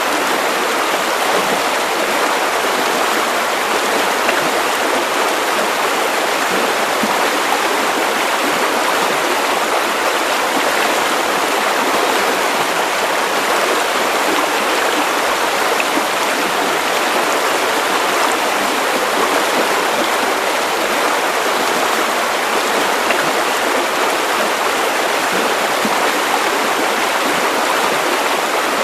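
Steady white noise: an even, unbroken hiss spread across the middle and high pitches, with little deep bass.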